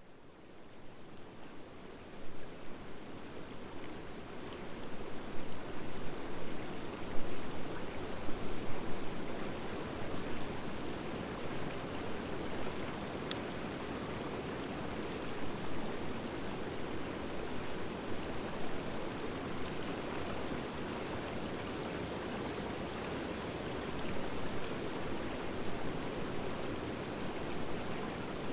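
Wood fire of driftwood and dry hardwood logs burning in a fire-pit stand: a steady rushing hiss that fades in over the first seconds, with scattered crackles and one sharp pop about thirteen seconds in.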